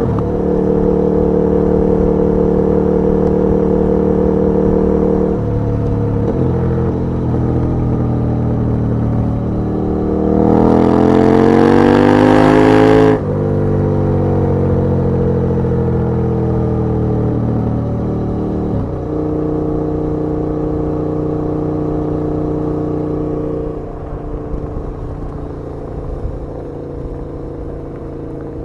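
KTM 1290 Super Duke R's V-twin engine on the move. It cruises steadily, pulls hard with a rising pitch about ten seconds in, and cuts off suddenly a few seconds later. The pitch then falls for several seconds before the engine settles back to a steady cruise.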